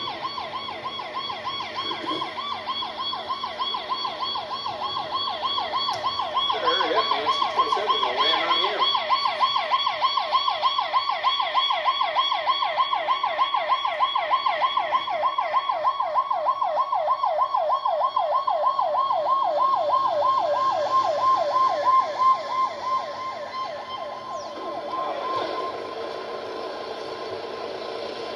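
Twin turboprop engines of a C-27 cargo plane: a fast-pulsing, wavering whine that builds steadily louder, then breaks off about 23 seconds in, leaving a lower, steadier engine noise.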